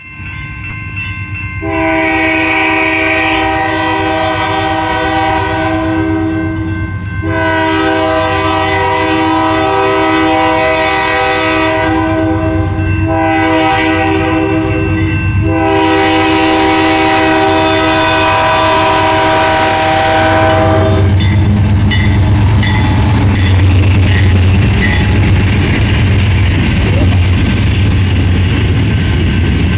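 GE B40-8 diesel locomotive horn blowing the grade-crossing signal, long, long, short, long, ending about 21 seconds in. The locomotives' diesel engines then rumble past, and the freight cars' wheels click over the crossing.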